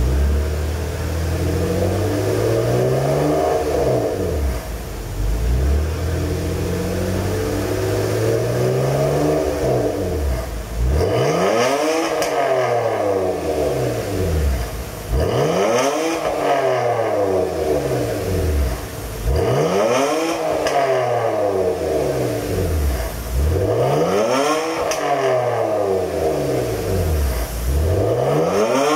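BMW E90 323i's 2.5-litre straight-six revved through an aftermarket exhaust with a Y-pipe mid-section and a single muffler feeding quad tips. Two slow climbs and falls in revs, then about five quicker rev blips roughly every four seconds, each rising and dropping back.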